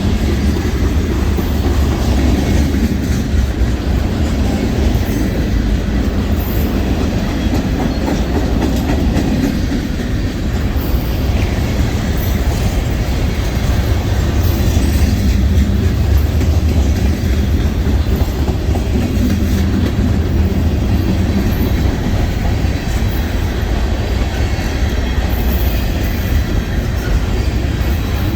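Loaded freight train rolling past at close range, with a steady, loud rumble of freight cars and their wheels clicking over the rails.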